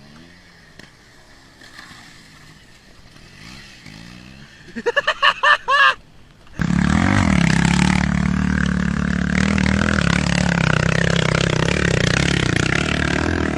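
Motorcycle engine: faint and revving at first, then a few loud, high, wavering bursts about five seconds in, and from about halfway a loud, steady engine run with a rushing hiss.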